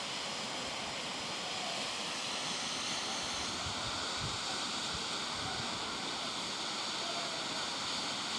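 Sajikot Waterfall's water falling and splashing: a steady, even rush.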